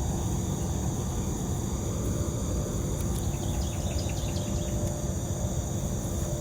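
Steady outdoor insect chorus of crickets, an even high-pitched trill, over a low rumble and a faint steady hum.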